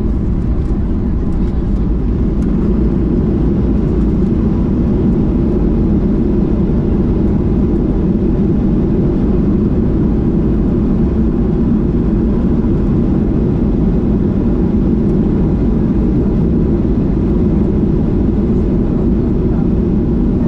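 Cabin noise inside a Boeing 737 MAX 8 airliner during landing: a steady low rumble of engines and rushing air, with no sudden changes.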